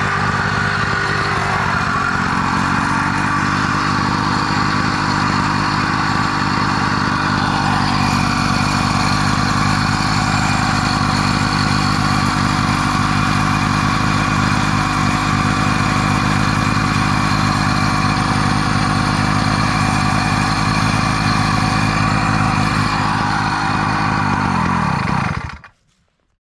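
Motorized bicycle's small gas engine running steadily under way, with an even firing rhythm; the sound cuts off abruptly near the end.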